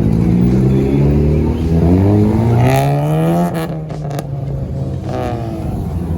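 Car engine revving and accelerating hard, its pitch climbing steeply, cutting back, then rising briefly once more near the end.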